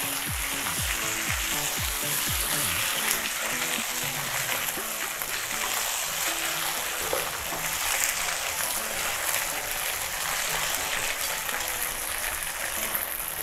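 Potato gnocchi and mushrooms sizzling steadily in hot oil in a frying pan as they are stirred with a wooden spatula, under background music.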